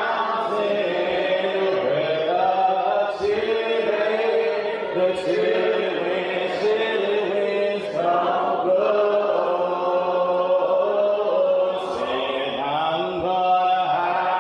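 Church congregation singing a slow hymn a cappella, the voices holding long, gliding notes with no instruments.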